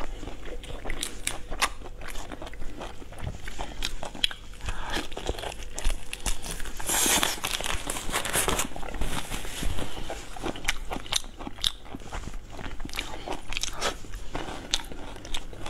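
Close-miked chewing and crunching of whole shrimp, shells included, with many sharp crunches and a denser stretch of crackling about seven seconds in.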